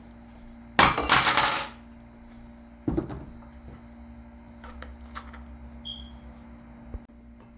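Kitchen clatter: a loud, ringing metallic rattle lasting under a second about a second in, then a single knock about three seconds in, followed by a few light clicks.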